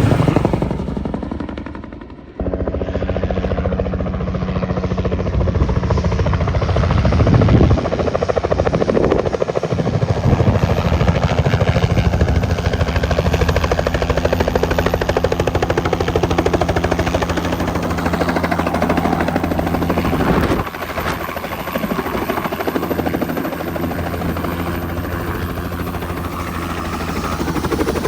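Helicopter rotor and engine running loudly with a fast, even chop of the blades over a steady hum. The sound fades away at first, then cuts in abruptly about two seconds in and stays steady, with sudden small jumps in level.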